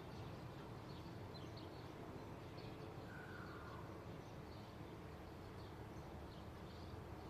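Faint small birds chirping, many short high calls scattered throughout and one longer, lower falling call about three seconds in, over a steady low background rumble.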